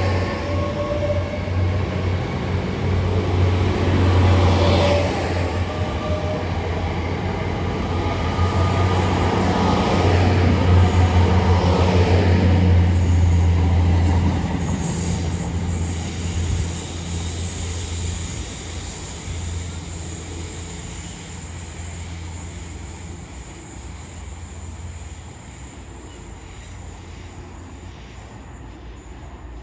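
GWR Class 800 bi-mode train, running on its underfloor diesel engines, pulling out of the platform and moving past with a steady low drone. It fades steadily over the second half as the train draws away.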